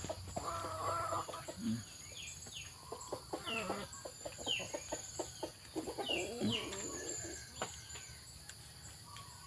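Small animals calling: a run of short, high calls that fall in pitch, with lower calls of several tones about a second in and again around six seconds in.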